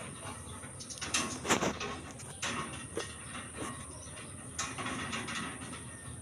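Steel rebar being handled to bend stirrup rings for concrete posts: a few separate knocks and clinks over a low background hum, the sharpest about one and a half seconds in.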